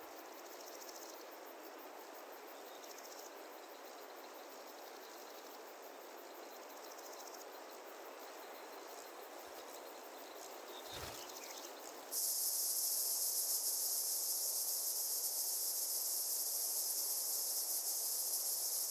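Faint insect chirping for the first twelve seconds, then a loud, dense, high-pitched chorus of cicadas starts abruptly and holds steady.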